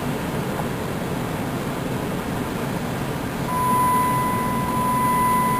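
Steady road and engine noise of a moving car heard from inside, with a steady high-pitched beep starting about three and a half seconds in and holding.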